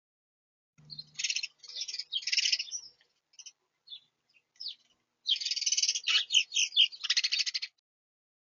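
Small songbird at a feeder giving rapid, buzzy chattering calls in two bouts: the first about a second in and the second, louder one past the middle. It is picked up close by a smart bird-feeder camera's microphone.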